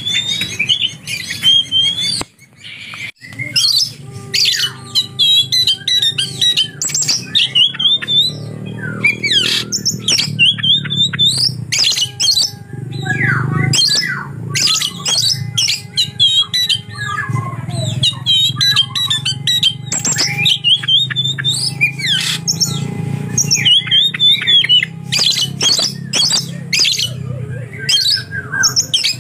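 Oriental magpie-robin (kacer) singing a fast, varied song packed with mimicked lovebird squawks and chirps, mixed with clicks and short whistled glides, over a low steady hum.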